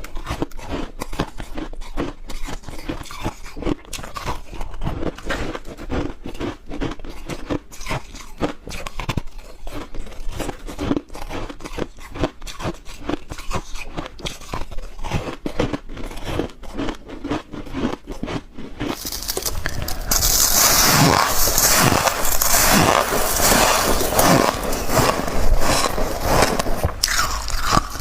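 Close-miked biting and crunching of soft, chunky white freezer-frost ice, dense rapid crunches throughout. About two-thirds of the way through it turns louder and hissier.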